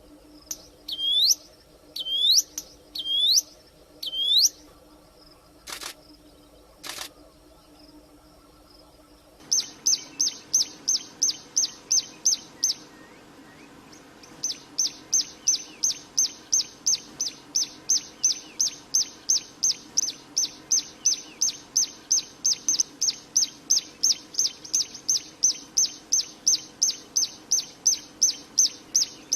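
Prinia (ciblek) singing. First come a few separate hooked call notes and two sharp clicks. Then, from about a third of the way in, it sings long runs of rapidly repeated high chirps, about three to four a second, with one short pause.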